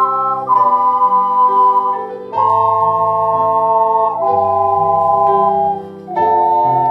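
Keyboard music with an organ-like sound: slow, sustained chords, each held for about two seconds before moving to the next.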